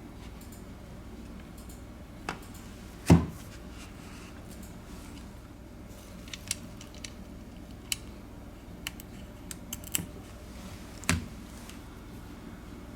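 Scattered clicks and knocks of small tablet parts and tools being handled during reassembly, over a steady low hum. The loudest knock comes about three seconds in and another a little after eleven seconds, with lighter ticks in between.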